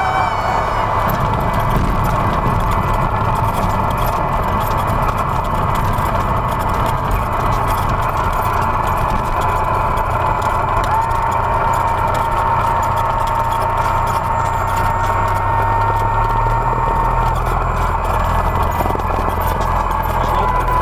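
Cessna 172's engine and propeller running steadily, heard from inside the cabin. A thin, steady high tone sounds over it for about six seconds midway and comes back near the end.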